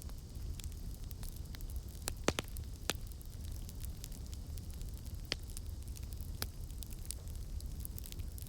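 Campfire crackling: many sharp pops and snaps over a steady low rumble of the flames, with a few louder pops about two and three seconds in.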